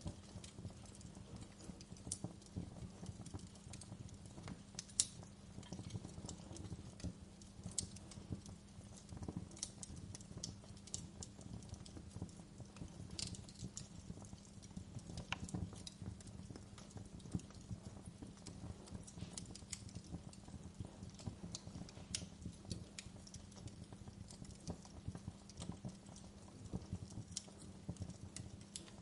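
Wood fire in a fireplace crackling steadily over a low rumble, with sharper pops every second or two.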